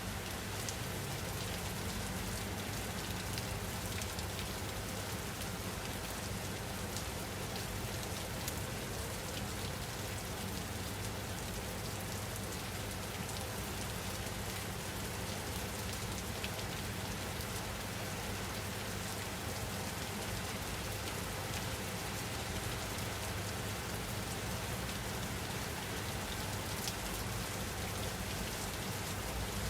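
Steady rain falling on a surface, an even hiss with scattered faint drop ticks, with no change in intensity.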